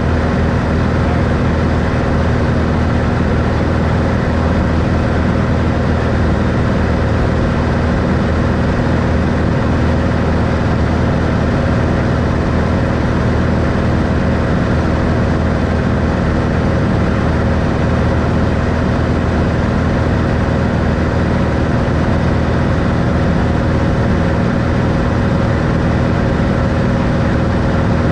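1964 Cessna 182 Skylane's six-cylinder Continental O-470 engine and propeller running at a steady drone in flight, with a constant low hum and no change in pitch.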